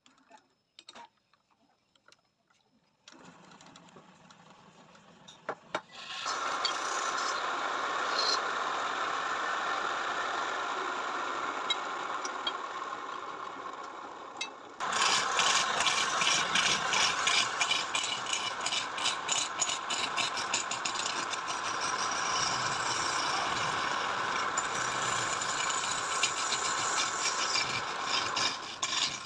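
A motor-driven machine comes on about six seconds in and runs steadily. About fifteen seconds in it gets louder, with a dense rapid rattle over the running.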